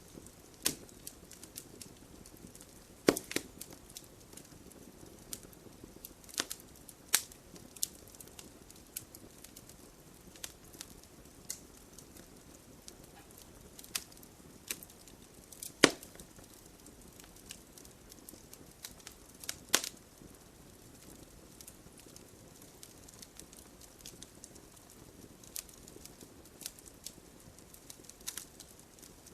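Log fire burning in a fireplace, crackling with irregular sharp pops over a soft steady hiss. A few louder snaps stand out, the loudest about 16 seconds in.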